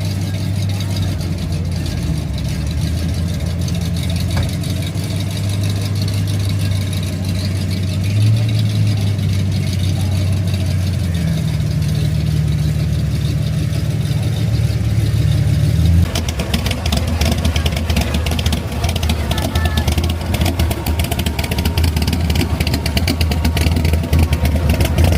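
A car engine idling steadily with a low, even note that steps up slightly a couple of times. About two-thirds of the way through, the sound changes abruptly to a rougher, noisier engine sound.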